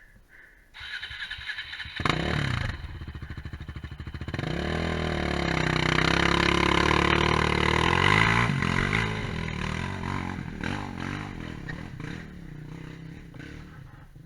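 Quad bike (ATV) engine revving hard off-road, coming in about two seconds in, swelling to its loudest around the middle and then fading away.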